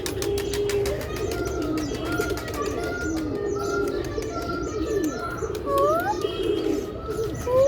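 Domestic pigeons cooing, several at once in a continuous overlapping chorus, with thin higher chirping notes above it and a couple of short rising whistles about six seconds in.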